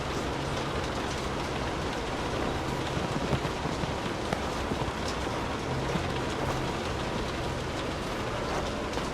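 Steady rain falling on a surface, with many small drop ticks. A faint low hum comes and goes underneath.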